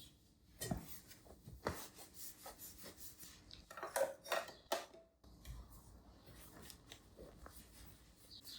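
Household objects being handled and rubbed: irregular light knocks and rubbing strokes, with a low steady hum and fewer, fainter knocks over the second half.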